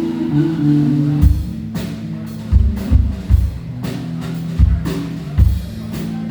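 Live band music: a drum kit comes in with bass drum hits and cymbal and snare strokes over held low pitched notes.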